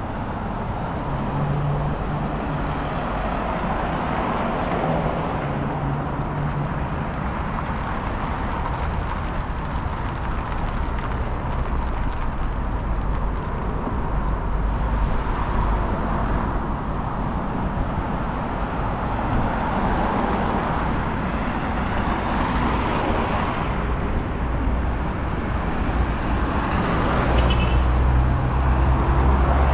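City road traffic: cars passing one after another, each swelling and fading, with a low rumble of wind on the microphone that is heaviest near the end.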